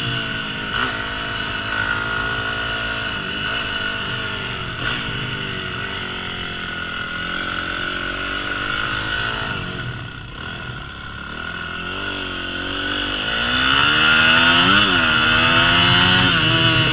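Yamaha YZ250F four-stroke single-cylinder dirt bike engine being ridden, its pitch rising and falling with the throttle. It eases off about ten seconds in, then revs back up, with a quick blip near the end.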